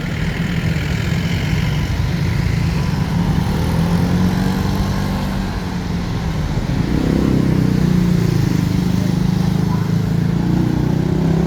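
Road traffic passing close: vehicle engines running steadily, with an engine's pitch wavering up and down around the middle.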